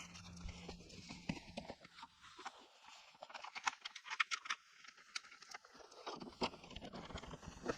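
Scattered faint clicks and taps of hand work on car parts, thickest about three to six seconds in.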